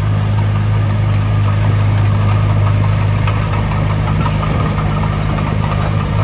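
Heavy machinery engine running steadily at a constant low speed, a strong even hum with no revving.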